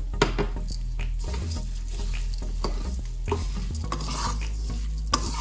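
A spatula stirring rice, potatoes and spices frying in a pan, with light sizzling and repeated scrapes and knocks against the pan. The sharpest knocks come just after the start and near the end.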